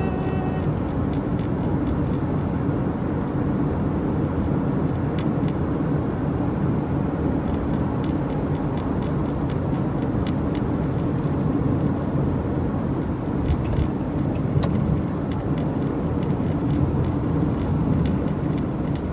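Steady road and engine noise of a moving car, heard from inside the cabin, with scattered faint ticks.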